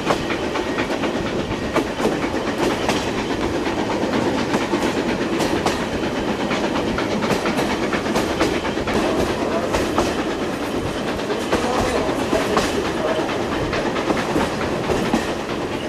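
A moving passenger train's wheels clattering over rail joints, with a steady rumble and frequent knocks and rattles from the coach, heard from inside a carriage.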